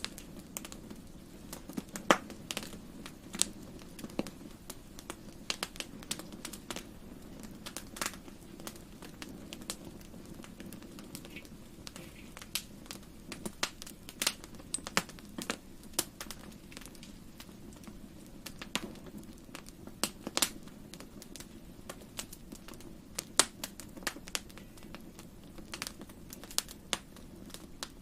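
Wood fire crackling in a fireplace: irregular sharp pops and snaps, some loud, over a steady low background.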